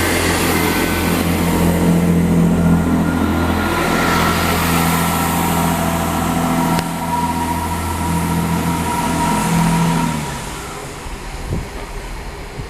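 Class 165 diesel multiple unit's underfloor diesel engines running with a steady low drone, the note dropping and fading away about ten seconds in.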